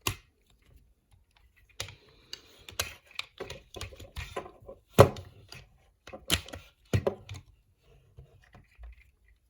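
Hands handling a plastic action figure and its packaging: irregular sharp clicks and knocks with some rustling between them. The loudest knock comes about halfway through.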